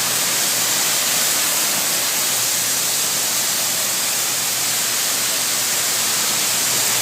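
High-pressure water jets of a touchless car wash spraying a car, a steady hiss.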